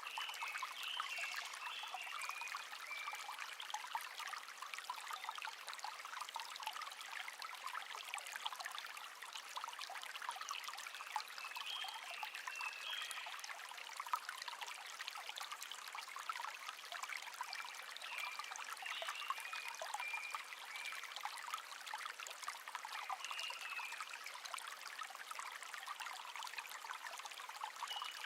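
Shallow brook babbling steadily over stones, with a songbird singing short warbling phrases several times over it.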